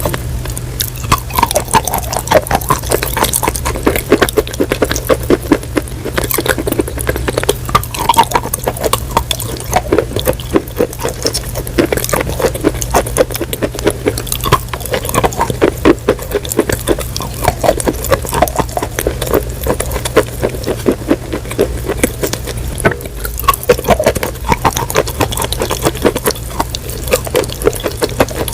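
Close-miked crunching and chewing of crunchy food: a dense, continuous run of crackling crunches over a steady low hum.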